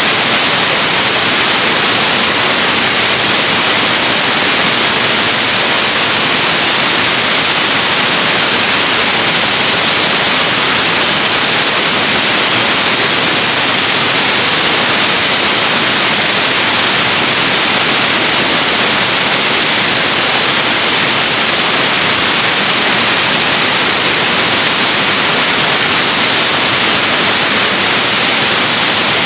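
Waterfall: a loud, steady rush of falling water with a bright hiss, unchanging throughout.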